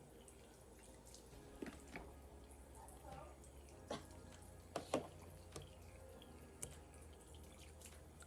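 Water dripping from a faucet into a sink: a handful of separate faint plinks, the loudest about five seconds in.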